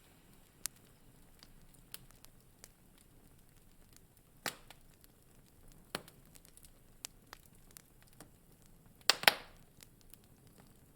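Wood fire in a fireplace crackling: scattered sharp pops and snaps a second or more apart over a faint hiss, with the loudest, a quick double pop, about nine seconds in.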